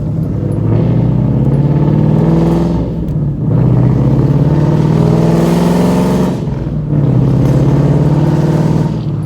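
Ford Mustang 5.0-litre V8 accelerating hard through the gears with a manual gearbox: the engine note rises in three pulls, with two brief drops for upshifts about three and six and a half seconds in.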